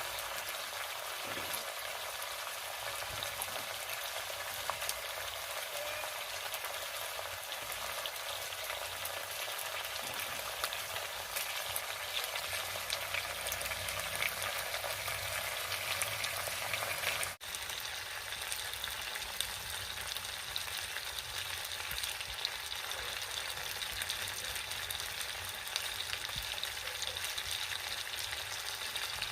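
Food frying in a hot pan: a steady sizzling hiss with fine crackles. It breaks off for an instant just past halfway.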